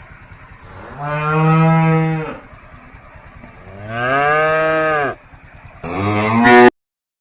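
A cow mooing three times, long drawn-out calls, the third cut off abruptly.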